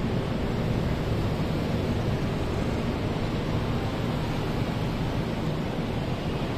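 Passenger train's carriages rolling slowly past: a steady low rumble of wheels on rails.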